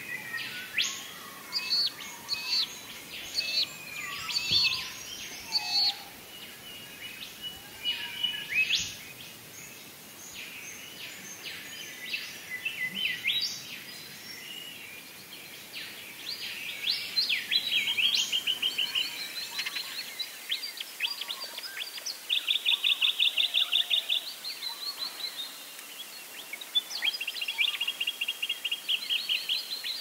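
Birds calling: many short chirps and whistles in the first half, then from about midway several fast, rattling trills, one of them lasting a couple of seconds.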